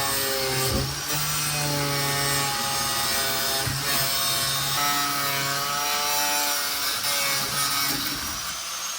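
Angle grinder cutting through a boat's fiberglass deck into the rotten wood core beneath. The motor runs steadily, its pitch wavering slightly as the disc bites.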